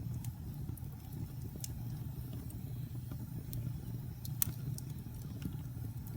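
Wood fire burning in a fireplace: a steady low rumble of the flames with scattered sharp crackles and pops, the loudest about four and a half seconds in.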